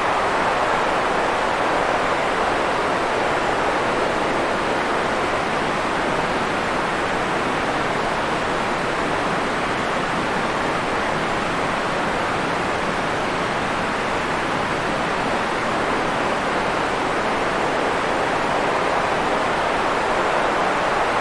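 Steady white-noise-style hiss with its energy centred in the midrange, even and unchanging throughout, like a sleep-sound noise track.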